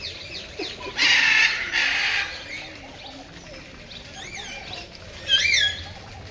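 Birds squawking: two harsh, rasping calls in the first couple of seconds, then short rising-and-falling calls, the loudest about five seconds in.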